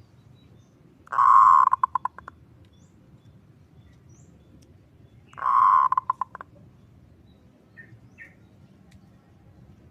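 Zebra dove (perkutut) calling twice, about four seconds apart: each call is a rolling kerot purr followed by a quick run of short coos that trail off.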